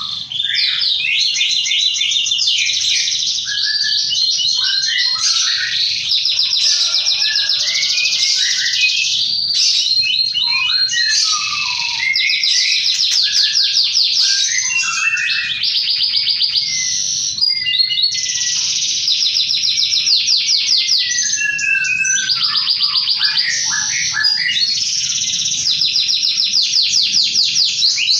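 Domestic canary singing a long, continuous song of rapid high trills and rolling runs of repeated notes, broken only by brief pauses.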